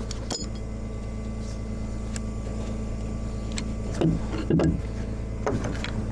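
Tow truck engine running steadily, a low even drone, with a sharp click shortly after the start and a few brief knocks or mumbles about four to five and a half seconds in.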